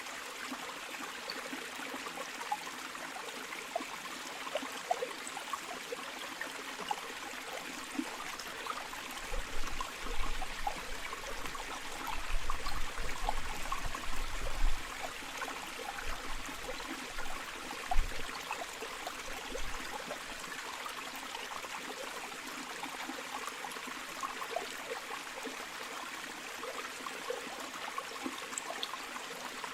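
River water flowing steadily: a continuous rush full of small gurgles and trickles. Low rumbles come and go in the middle, with a single low thump about 18 seconds in.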